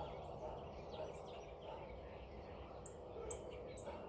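Wild birds singing and chirping faintly: a mix of short high calls and quick twittering from several birds, over a low steady background noise.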